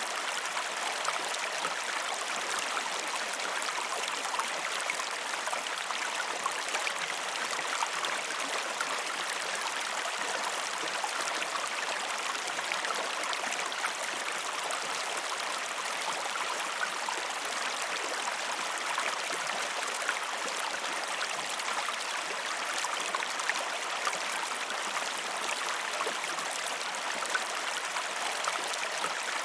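River water rushing and splashing steadily over rocks, an even wash of noise with many small splashes and no pause.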